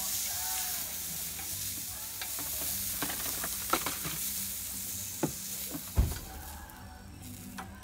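Meat and onions sizzling on a griddle plate over a portable gas camping stove, with the clicks and scrapes of a metal fork and knife turning the pieces. There is a louder knock about six seconds in, and the sizzling thins out near the end.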